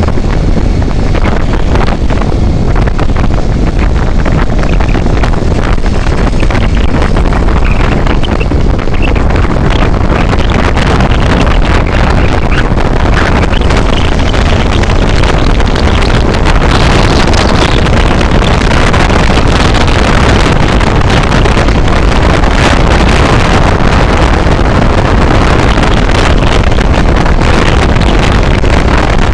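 Wind buffeting the microphone of a vehicle moving along the highway: a loud, steady rush over a constant low rumble, growing brighter and hissier about halfway through.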